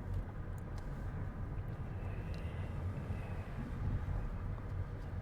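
Steady low rumble of a car driving at moderate speed, engine and road noise heard from inside the cabin.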